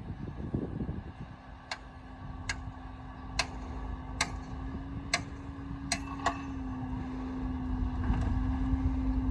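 A heavy diesel earthmoving machine's engine running with a steady drone that grows louder toward the end. Sharp metallic clicks sound about once a second through the middle.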